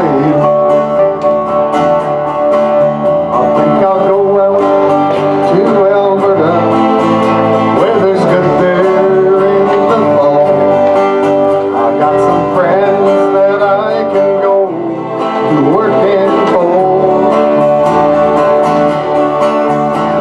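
Live acoustic folk-country music: guitar played with a voice singing over it.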